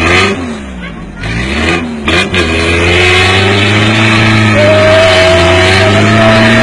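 A classic Lada's four-cylinder engine revving hard under load as the car pulls on a tow rope against a horse and cart. In the first couple of seconds the revs rise and fall, with a few sharp clacks. The engine is then held at a steady high pitch.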